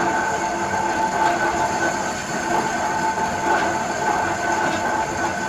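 Lathe running as it chases the grooves on a CTC roller: a steady metal-cutting and machine noise with several held high tones.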